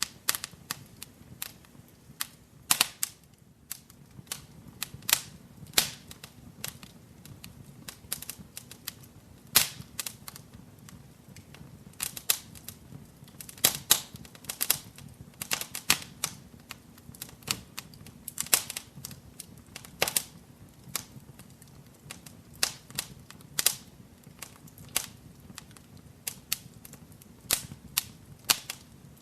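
Wood fire crackling in a fireplace: irregular sharp pops and snaps, several a second with some louder ones, over a faint low rumble of the flames.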